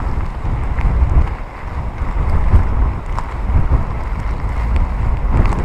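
Typhoon wind blowing hard across a phone's microphone, a loud uneven rumble, with heavy surf breaking on coastal rocks underneath.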